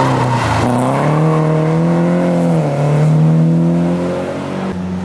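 Rally car engine accelerating hard through the gears, its pitch rising and dropping sharply at two upshifts, then falling away.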